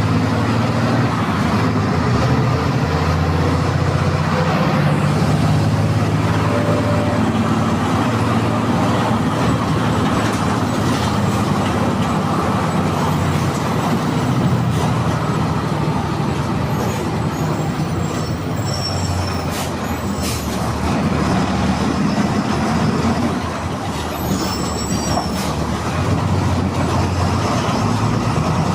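MWM 6.12 TCE 7.2-litre six-cylinder turbo-intercooled diesel engine of a VW 17-230 EOD bus running steadily, with a brief drop in level about 23 seconds in.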